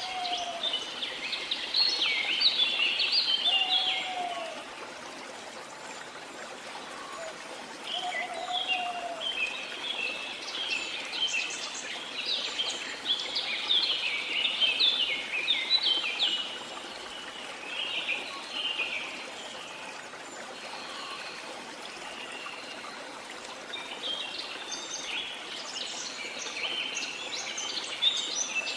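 Songbirds singing in bursts of rapid chirping phrases over the steady rush of running water. A lower, slurred whistle sounds three or four times in the first nine seconds.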